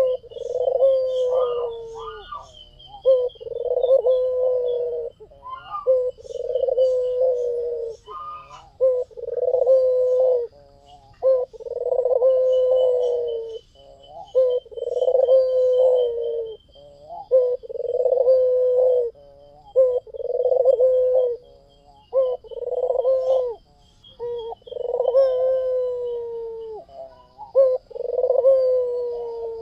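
White Barbary dove (puter putih) cooing over and over, one low coo about every two seconds. Faint high chirping runs behind the coos.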